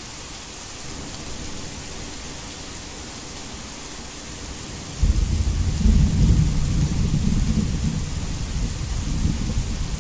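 Heavy rain falling in a steady hiss, with a low rumble of thunder that comes in suddenly about halfway through and rolls on, loudest a second or so after it begins.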